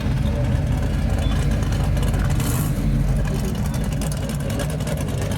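Classic car engine running with a steady low rumble as a car rolls into a car show, with a brief hiss about two and a half seconds in.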